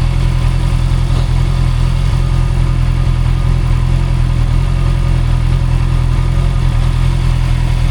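Honda CB650R's inline-four engine running steadily at idle, a loud, even engine sound with no revving.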